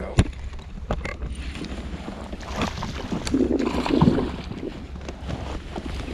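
Handling noises aboard a fishing kayak: scattered clicks and knocks, then a louder scuffling, splashy stretch about three to four seconds in, over wind rumble on the microphone.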